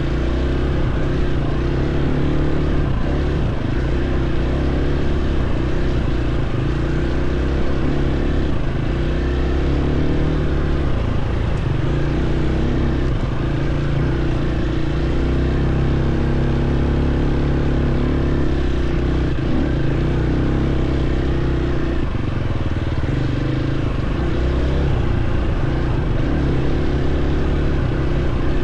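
Dirt bike engine running under load on a trail, holding a fairly steady speed with small rises and falls in pitch.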